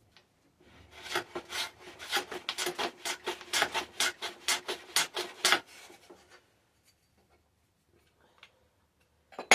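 Piece of wood trimmed by hand in quick, even scraping strokes, about four a second, for about four and a half seconds, then stopping. A sharp knock comes right at the end.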